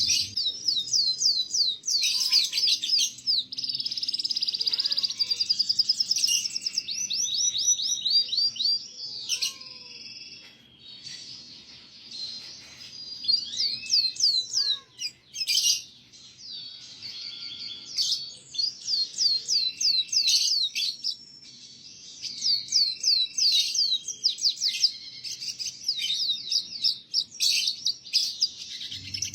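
Domestic canary singing a long, varied song of rapid trills and repeated chirping notes, broken by brief pauses. This is master song used to teach young canaries to sing.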